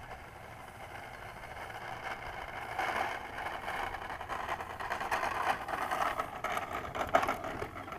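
An electric RC model airplane's motor running, getting louder from about a third of the way in, with a few sharp cracks near the end.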